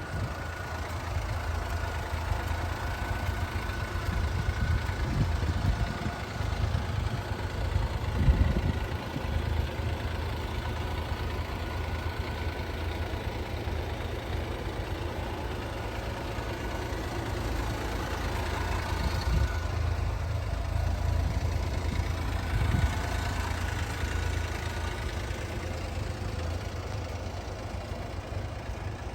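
1997 Honda Acty kei truck's small three-cylinder engine idling steadily, with a brief louder rumble about eight seconds in.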